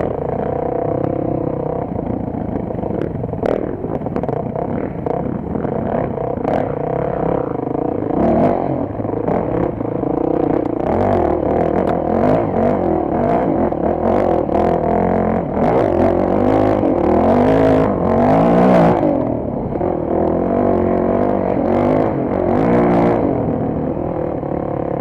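Dirt bike engine running and revving, its pitch rising and falling again and again as the rider works the throttle and gears, with scattered knocks and clatter.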